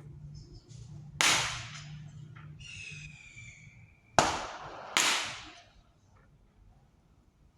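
Three firework bangs, each trailing off in a short fading hiss, the last two under a second apart. A high, slightly falling whistle sounds between the first and second bang.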